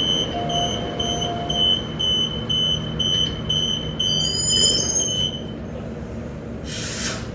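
Door-closing warning beeps of a Transperth B-series electric train: a rapid high-pitched beeping, about two to three beeps a second, that stops about five and a half seconds in as the doors shut. A short burst of hiss follows near the end.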